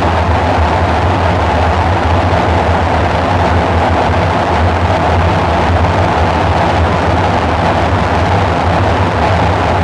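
Dark ambient synthesizer drone: a steady low hum under a hissing, noisy band higher up, with no beat or change in level.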